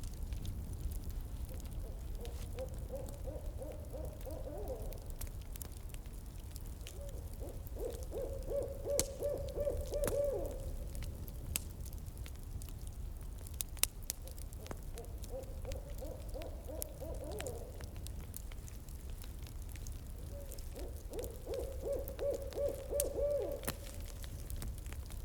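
An owl hooting in four separate bouts, each a couple of seconds of rapid, pulsing hoots. A campfire crackles throughout with scattered sharp pops.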